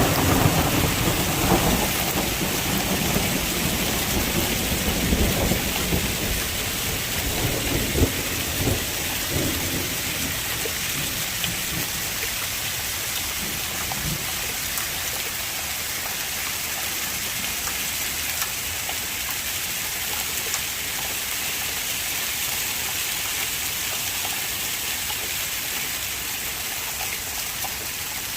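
Heavy rain pouring down in a steady hiss. Low, uneven rumbling runs through the first ten seconds or so and then fades away.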